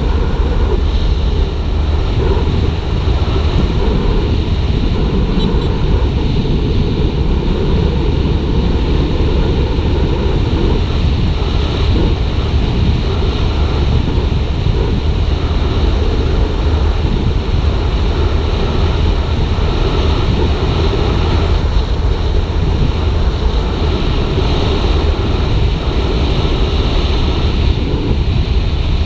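Steady rush of wind over an action camera's microphone while riding, with the Suzuki GSX-R150's single-cylinder engine running at cruising speed underneath.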